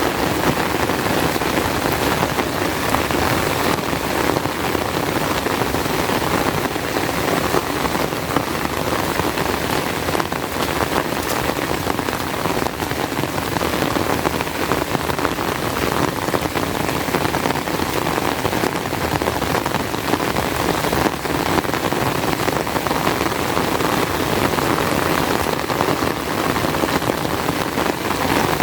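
Heavy rain pouring steadily, an even hiss of rain on surfaces.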